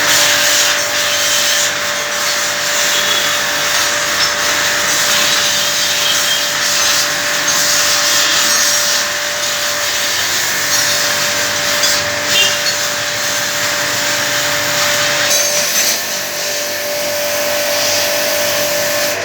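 A power tool running steadily for a long stretch, a constant whine over a loud grinding, rubbing hiss.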